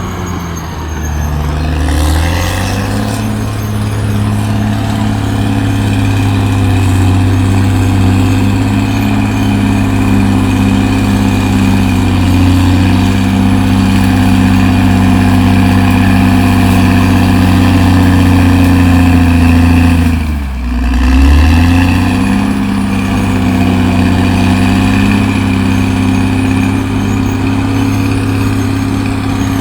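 CAT D6R XL bulldozer's diesel engine running steadily and loudly. Its note drops and then picks back up, briefly near the start and again about two-thirds of the way through.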